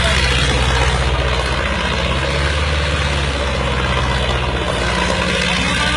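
Tractor engine running steadily at a constant low speed.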